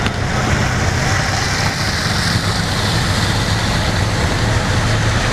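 A motor vehicle on the move: a steady engine hum under constant road and wind noise.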